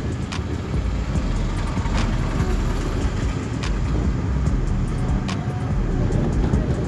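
Road and engine noise heard inside a moving car: a steady low rumble, with a faint sharp tick about every one and a half seconds.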